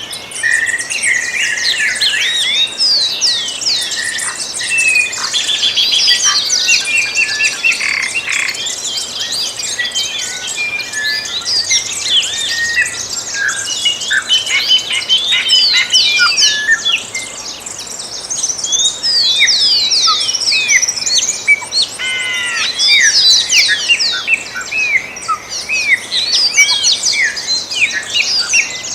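Many birds singing together in a dawn chorus, a dense mix of overlapping chirps, trills and quick sweeping whistles with no pause.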